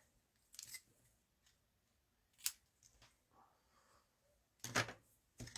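Scissors cutting linen ribbon: a few short, separate snips, the crispest about two and a half seconds in and the loudest near the end.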